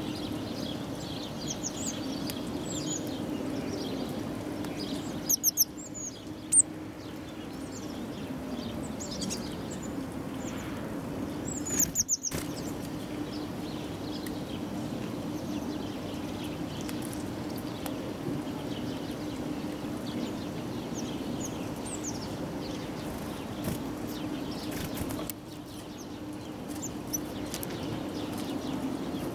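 Small songbirds chirping with short high calls, with a few louder, sharp calls around six seconds in and again about twelve seconds in, over a steady low hum.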